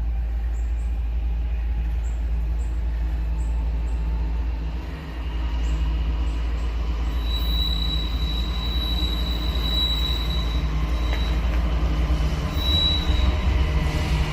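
Freight train cars rolling past with a steady low rumble; a high-pitched wheel squeal comes in about seven seconds in and dies away near the end.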